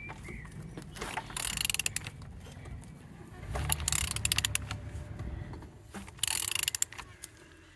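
Ratchet wrench clicking in three separate spells as a used car engine's crankshaft is turned over by hand. The engine turns freely, with compression felt on the front cylinders.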